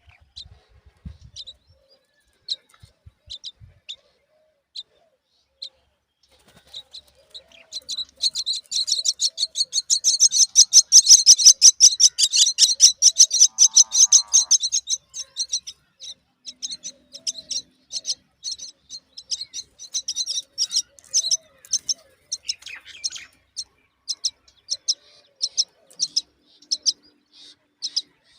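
Myna chicks chirping high and fast, swelling into a loud rapid run of begging calls in the middle and then thinning out to scattered chirps.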